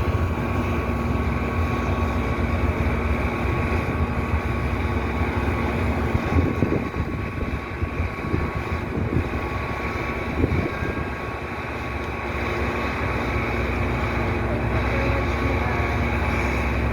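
Truck engine running steadily with a low rumble, with a few short knocks about six and ten seconds in.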